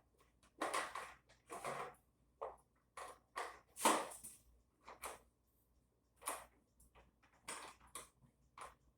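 Tools and small metal parts knocking and clinking while the tiller's parts are put back on: about a dozen short, irregularly spaced knocks.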